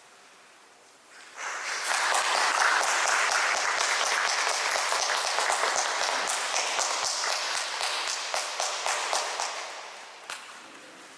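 Audience applauding: many people clapping, starting suddenly about a second in and dying away near the end.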